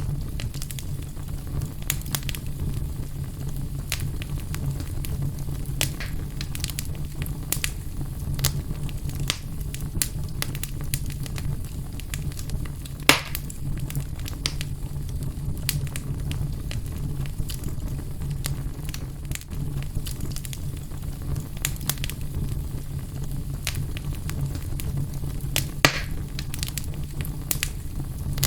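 Fire burning in a fireplace, with a steady low rumble under scattered crackles. Two louder pops stand out, about halfway through and near the end.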